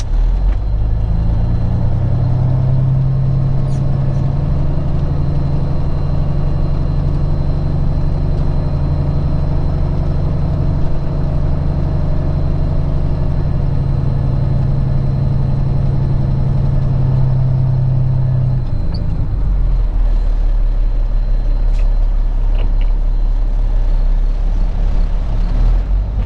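Peterbilt 379 semi truck's diesel engine running as the truck is moved at low speed; about three-quarters of the way through the engine note drops lower, and it picks up again near the end.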